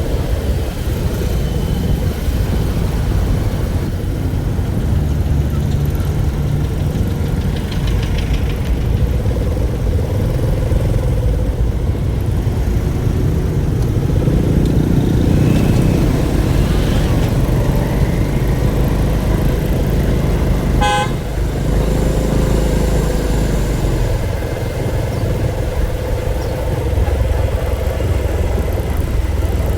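Motor vehicle engine and road rumble, steady and low, swelling for a few seconds midway. One brief vehicle horn toot about two-thirds of the way through.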